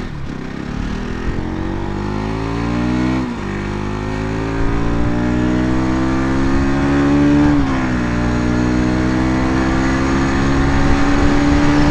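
Motorcycle engine accelerating hard through the gears. Its pitch climbs, drops at an upshift about three seconds in, climbs again, and drops at a second upshift about seven and a half seconds in. It then runs at a steady high pitch.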